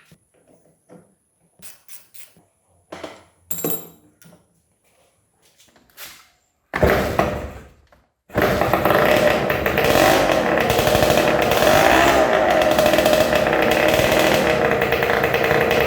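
Honda CRM250 two-stroke single-cylinder engine being started: a few clicks and knocks, then the engine fires briefly and dies, and about two seconds later it catches and keeps running loudly with a buzzy two-stroke note.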